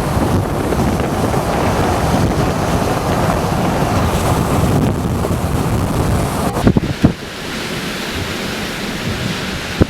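Strong wind buffeting the microphone in a gusty low rumble, easing about seven seconds in. A few sharp knocks come just before it eases and again near the end.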